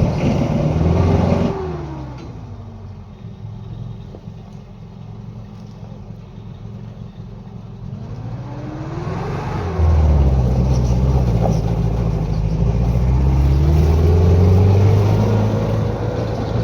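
Motor vehicle engine under way. About a second and a half in, the revs drop and settle low and quieter for several seconds. They climb again from about eight seconds in, and the engine pulls loudly at higher revs, with a whine rising alongside it, before easing off near the end.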